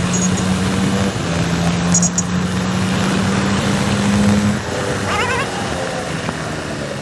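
Motorcycle engine running steadily while riding, with wind and road noise; its pitch steps up about a second in and drops off after about four and a half seconds. A brief wavering higher-pitched squeal about five seconds in.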